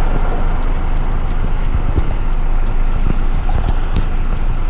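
Heavy rigid truck's diesel engine running steadily, a constant low rumble with a few faint ticks over it.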